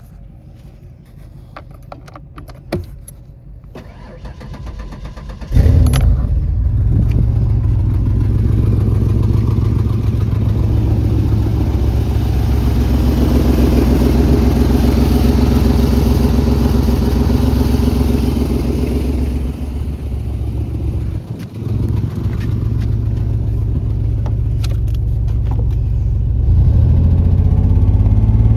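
1990 Ford Ranger 4.0 L V6 started after a few seconds of clicks. It fires about five and a half seconds in and then runs steadily. The running sags briefly around twenty seconds in and picks up again to a higher speed near the end.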